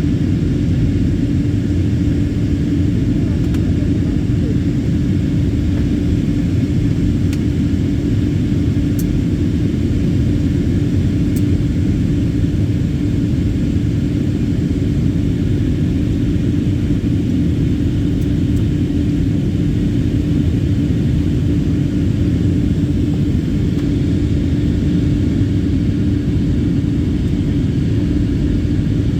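Airliner cabin noise in flight: the steady low rumble of the jet engines and airflow, with a constant hum underneath.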